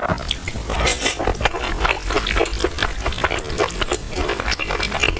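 Close-miked eating sounds: a dense run of irregular clicks and wet smacks from a spoon working in a bowl and from chewing.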